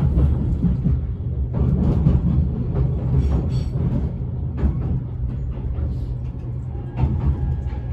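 JR Shikoku 8000 series express train (S4 set, re-equipped with a Toyo Denki hybrid SiC VVVF inverter) running, heard inside the passenger car: a steady low rumble of wheels on rail with scattered knocks. A faint steady whine comes in near the end.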